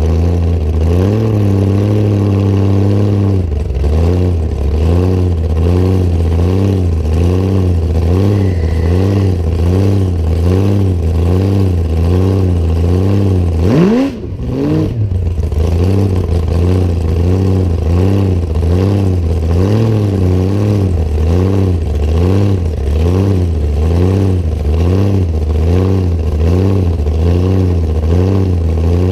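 Hot rod coupe's engine running loud through open zoomies exhaust headers while cruising, with a steady pulsing beat. About halfway through the revs climb briefly and the sound dips for a moment before settling back to the same note.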